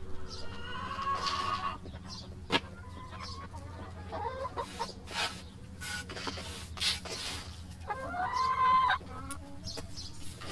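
Backyard chickens clucking and calling, with two louder drawn-out calls, one about a second in and one near the end. A single sharp click or knock sounds about two and a half seconds in.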